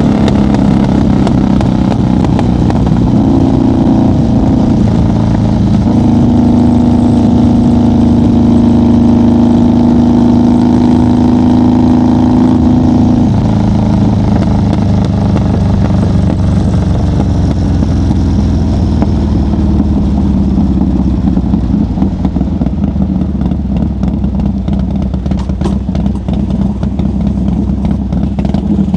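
1990 Harley-Davidson FXR's 1340 Evolution V-twin running at steady highway speed. About 13 seconds in its pitch drops as the throttle is eased off, and from about 20 seconds it runs lower and choppier as the bike slows.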